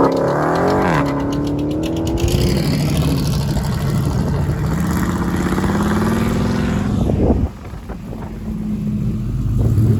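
Engine revved hard: a rev falls back about a second in and the engine is held at raised revs, then climbs steadily for a few seconds and is cut off sharply, dropping to a rough idle before rising again near the end.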